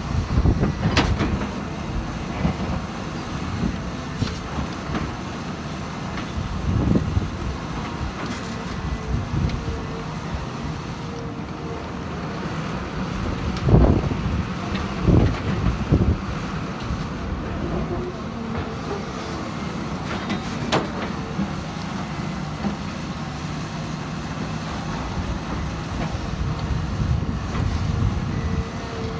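Cat 320 hydraulic excavator's diesel engine running steadily, with several heavy knocks, the loudest about halfway through.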